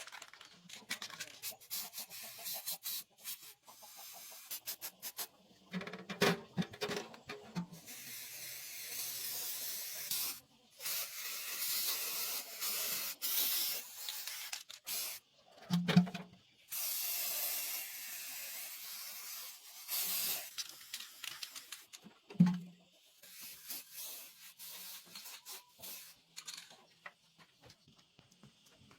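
Repeated bursts of hissing spray, each a few seconds long, with knocks and clicks in the gaps between them.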